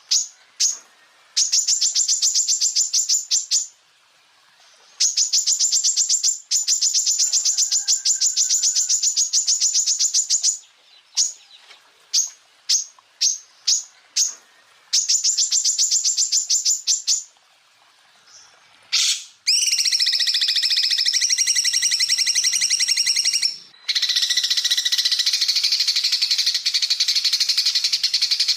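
Cucak ijo (green leafbird) song: sharp single chips and long runs of rapid, high repeated notes, the rapid-fire 'tembakan' phrases. In the last third these give way to a dense, continuous chattering.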